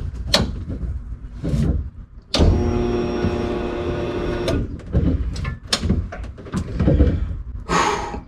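Small electric motor in the car, most likely the electric fuel pump priming at key-on, whining steadily for about two seconds. Sharp clicks and knocks from the cabin come before and after it, and a short hiss or rustle comes near the end.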